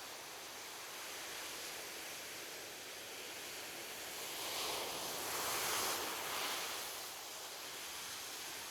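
Ocean surf washing on a beach: a steady hiss of water that swells as a wave breaks about five seconds in, then falls back.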